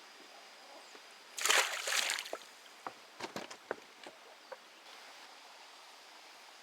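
Water splashing once, about a second and a half in, followed by a scatter of small drips and light knocks.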